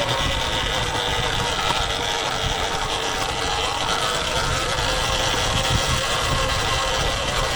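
Sur-Ron Ultra Bee electric dirt bike riding along at steady speed: a motor whine that sags slightly in pitch over a steady rumble of wind on the microphone.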